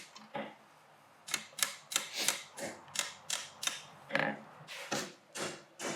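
Hand hammer striking a hot steel rod on the anvil, forging it into a spiral around a round-bar drift: quick, evenly paced blows at about three a second, with a short pause about a second in.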